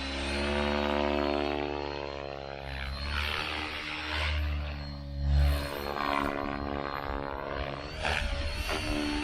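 Synergy E5 electric RC helicopter in flight, the whine of its rotor and motor rising and falling in pitch as it passes back and forth, loudest about halfway through.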